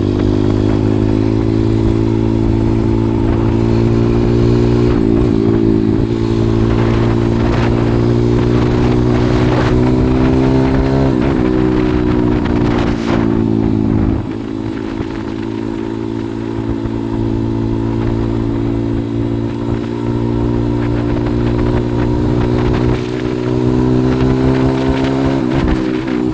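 140cc pit bike's single-cylinder four-stroke engine running under way at fairly steady revs, dipping briefly about 5 and 11 seconds in. It eases off about 14 seconds in and picks up again near the end.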